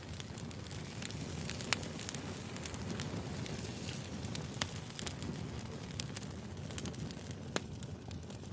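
Wood fire burning: irregular sharp crackles and pops over a low, steady rumble.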